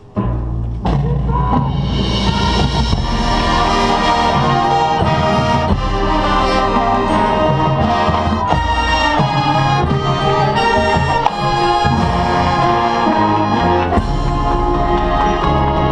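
Marching band brass and drums starting their show, coming in loud all at once with full brass chords over a heavy bass.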